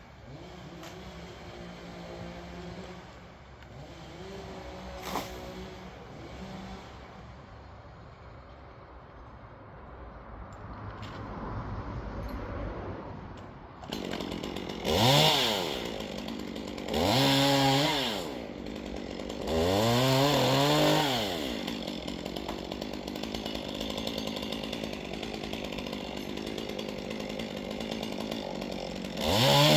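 Petrol chainsaw revving up and back down four times in the second half, idling between revs. A lower, steadier engine hum runs under the first half.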